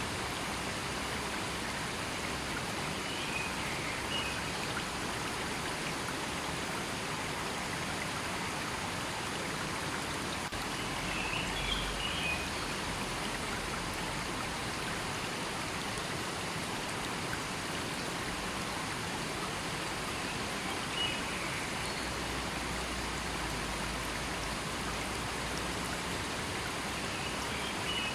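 River flowing: a steady, even rush of water. A few faint, brief high chirps rise over it about four times.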